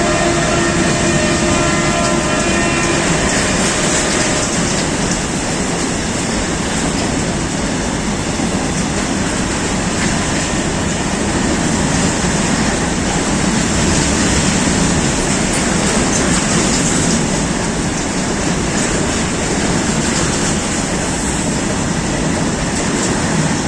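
Freight train of a WDG4G diesel locomotive and BCNA covered wagons passing at close range. The locomotive's horn sounds a chord of steady tones that stops about three seconds in, then the steady loud rumble and clatter of the wagons' wheels rolling past continues.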